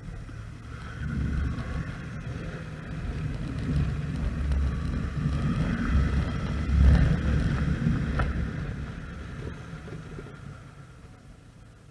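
Motorcycle engine rumble with wind noise, growing louder to a peak about two-thirds of the way through, then fading away over the last few seconds.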